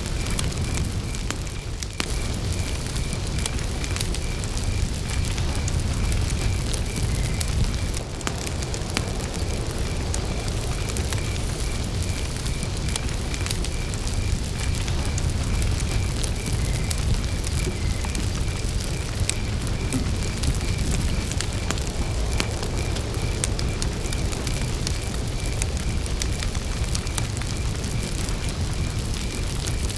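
Campfire burning, with wood crackling and popping over a steady low rumble. A cricket chirps in a high, evenly spaced rhythm throughout.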